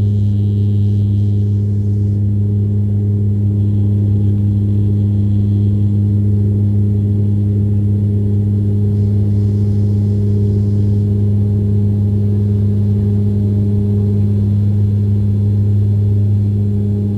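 Steady deep propeller drone inside the cabin of a de Havilland Canada Dash 8 Q400 turboprop, its six-blade propellers making a loud, unchanging hum with a second tone an octave above.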